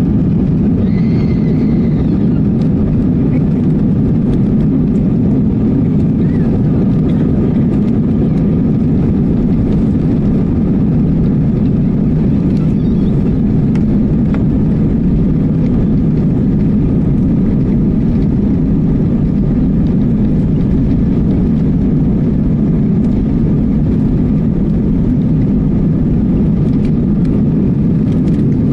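Steady, loud rumble of an airplane heard from inside the cabin: engine and airframe noise holding an even level throughout.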